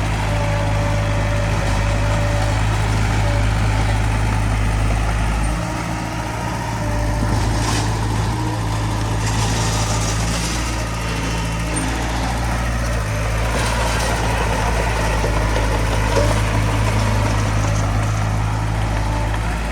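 Heavy-equipment diesel engine running steadily, its note dipping briefly about six seconds in.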